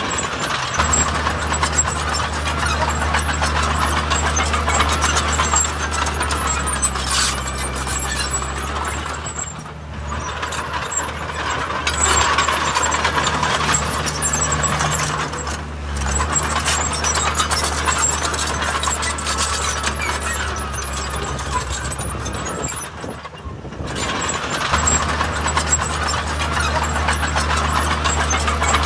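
Heavy diesel earthmoving machinery running steadily under load, its low engine drone dropping out briefly twice.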